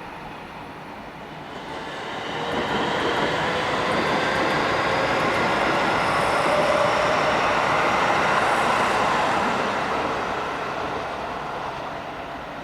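Electric commuter train running past along the platform. Its wheel and running noise builds over about two seconds, holds for several seconds and then fades near the end, with a faint rising whine from the traction motors.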